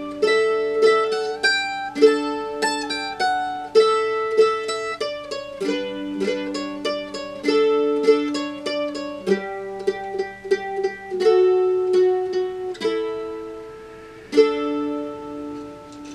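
A plucked string instrument plays a folk waltz tune in notes and double-stops, with a run of fast repeated tremolo notes about nine to eleven seconds in. It ends on a chord struck near the end and left to ring and fade.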